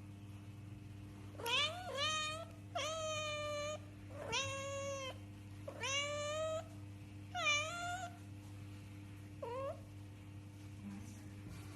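A cat meowing repeatedly: about six drawn-out meows in a row, then a short one near the end.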